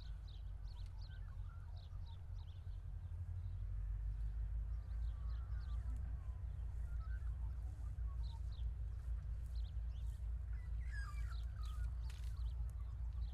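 Birds chirping and calling in short, repeated notes, with a busier flurry of calls near the end, over a steady low rumble.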